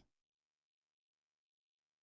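Near silence: a digital pause between narration.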